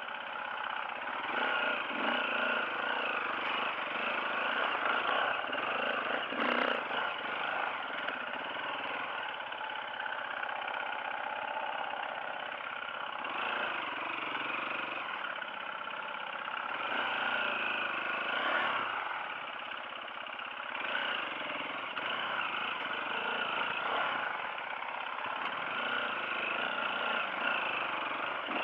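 Off-road motorcycle engine running on a trail ride, its revs rising and falling continuously, with a single sharp knock about six seconds in.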